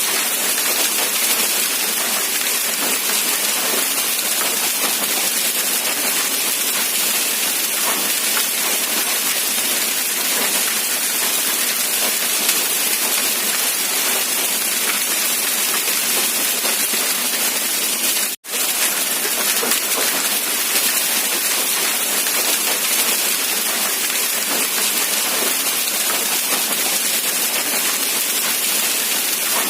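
Rain falling steadily as an even, dense hiss with no distinct drops standing out. The sound cuts out for an instant about two-thirds of the way through, then carries on unchanged.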